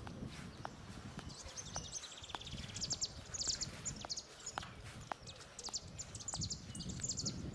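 Garden birds singing: fast trills of high, repeated notes starting about a second in and coming in several bursts, over a low background rumble.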